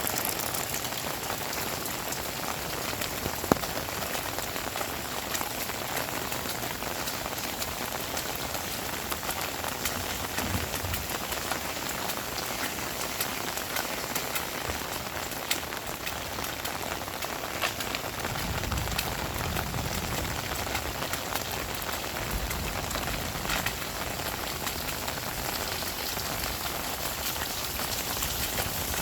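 Heavy rain falling steadily, with sharp drop hits now and then and one louder click about three and a half seconds in. A low rumble comes in about two-thirds of the way through.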